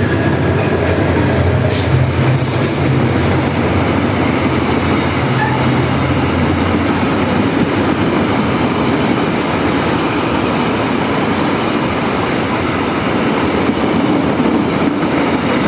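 Train passing close by, a loud steady rumble of wheels on the rails with the low drone of the locomotive fading after about six seconds. No horn is sounded.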